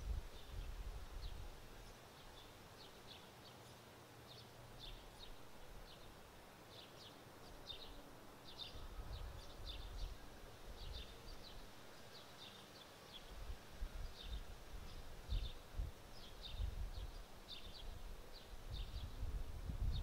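A small bird chirping over and over, short high chirps about twice a second, while wind gusts buffet the microphone with a low rumble, heaviest at the start and again from about two thirds of the way in.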